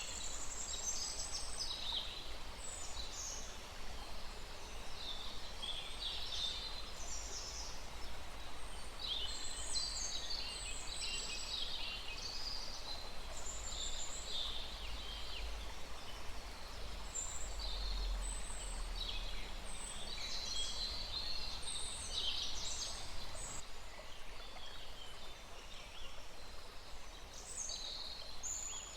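Several small birds chirping and singing in quick, overlapping high calls over the steady wash of a small stream, with a low rumble underneath that swells around the middle.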